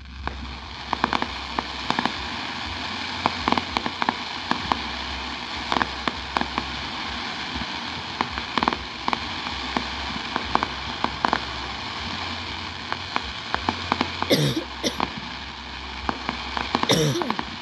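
Fireworks crackling: a dense, steady crackle packed with sharp pops, starting suddenly, with a few louder cracks near the end.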